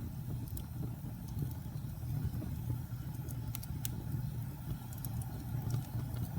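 Wood fire burning in a fireplace: a steady low rumble from the flames with scattered sharp crackles and pops from the logs, a few of them close together about three and a half seconds in.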